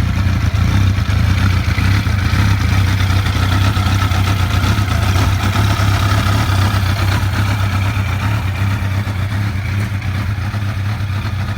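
Kawasaki ZX12R's 1200cc inline-four engine, breathing through an aftermarket exhaust, idling steadily.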